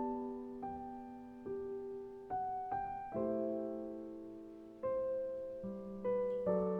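Slow, gentle piano music: single notes and chords struck every second or so, each left to ring and fade.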